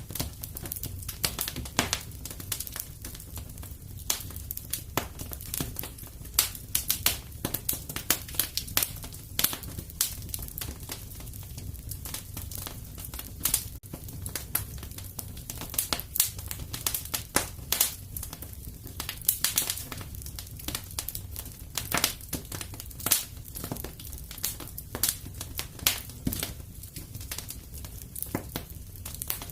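Wood fire crackling in a fireplace: many irregular sharp snaps and pops over a low, steady rumble of the flames.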